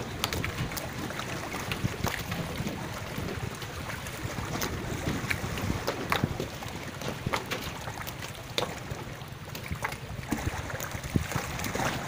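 Wind buffeting the microphone over lake water, with scattered small knocks and clicks throughout.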